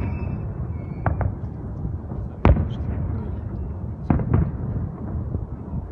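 Fireworks display: sharp bangs of bursting shells over a continuous low rumble of distant explosions, the loudest crack about two and a half seconds in, with more pairs of bangs about a second in and near four seconds.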